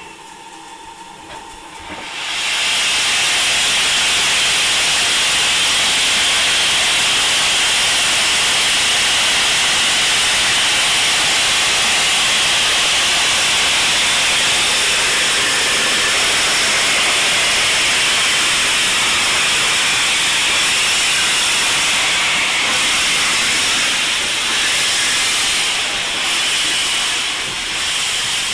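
Steam locomotive letting off steam: a loud, steady hiss that starts about two seconds in and holds, wavering a little near the end.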